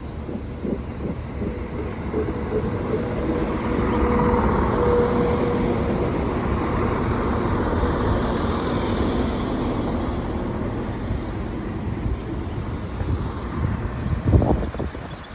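A train passing on the line by the level crossing: its running noise builds to a peak about four to ten seconds in and then eases off. A few sharp thumps come near the end.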